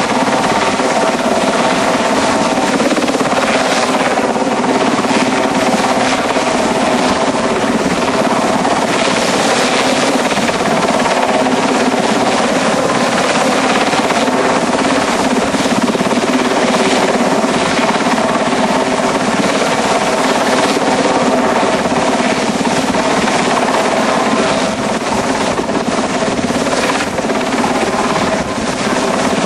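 RAF Westland Sea King rescue helicopter running loud and steady, its rotors and twin turboshaft engines making a constant heavy drone with a steady whine.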